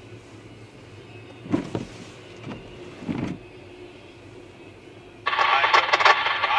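Double-stack container freight train passing, heard from inside a closed car as a low rumble with a few dull thumps. About five seconds in, a much louder rattling, scraping noise starts suddenly and keeps going.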